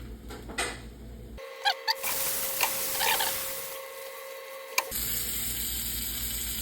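Butter sizzling in a hot frying pan, with a few sharp clicks of a utensil near the start of the sizzle.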